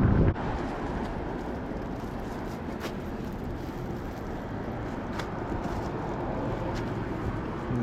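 Wind buffeting the microphone cuts off abruptly about a third of a second in. After that there is a steady rumble of outdoor background noise with a few faint clicks.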